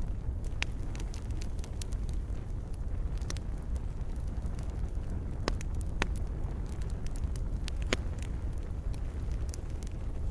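Wood campfire crackling: irregular sharp pops and snaps, a few standing out loudly, over a steady low rumble.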